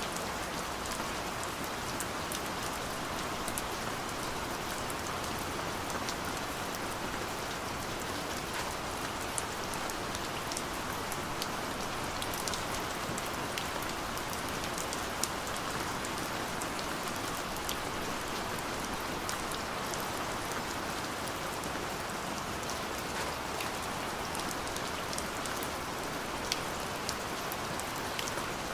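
Steady rain falling, an even hiss with many small drop impacts ticking through it.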